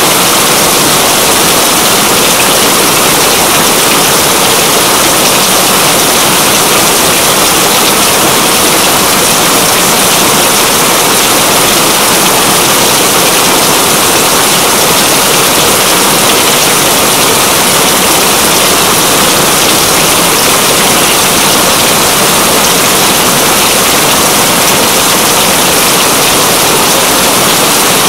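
Heavy rain falling as a steady, dense hiss that never lets up.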